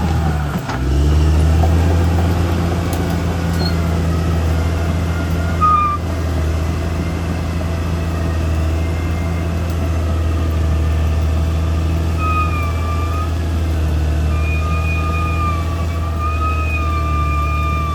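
CAT D6R bulldozer's diesel engine running steadily under load, dipping briefly just under a second in. From about twelve seconds on, a wavering high-pitched squeal comes and goes over the engine.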